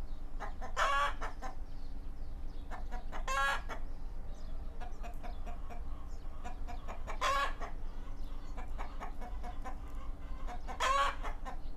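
Chickens clucking, with a short, louder pitched call about every three seconds, four in all.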